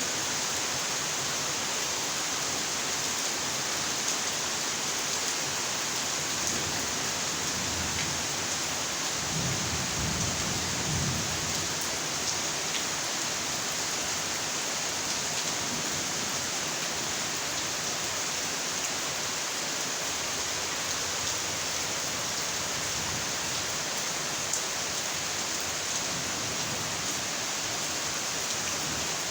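Steady rain falling, with a low rumble of thunder about nine to eleven seconds in.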